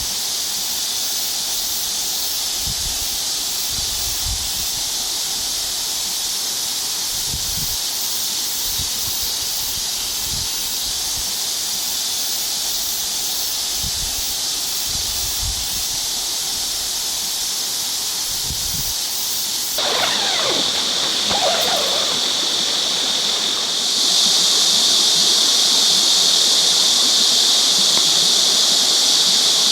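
Steady high-pitched hiss of outdoor ambience at a valley-stream campsite, growing louder about 24 seconds in. A few faint low thumps in the first part and a few brief chirps around 20 seconds in.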